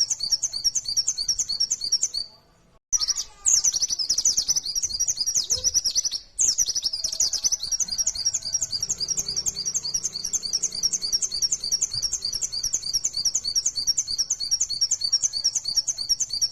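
White-eye (pleci) singing a fast, continuous string of high repeated chirping notes, about four a second. The song breaks off briefly twice in the first few seconds, with a quicker, denser run of notes between the breaks.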